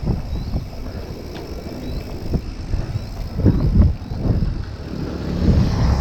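Wind buffeting the microphone on a moving bicycle, in low gusts that swell about halfway through and again near the end, with scattered knocks and rattles.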